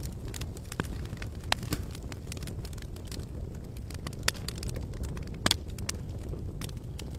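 Wood campfire burning, with irregular sharp crackles and pops over a low steady rumble. Two pops, about one and a half seconds in and about five and a half seconds in, stand out above the rest.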